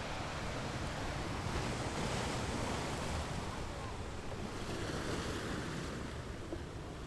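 Ocean waves washing onto a beach: a continuous rushing surf that swells about two seconds in and eases off near the end.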